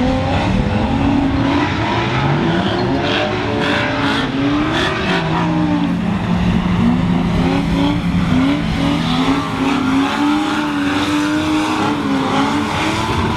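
Drift car engines revving hard on a wet track, the pitch climbing and dropping again and again, with a stretch of rapid stutter held at high revs in the middle.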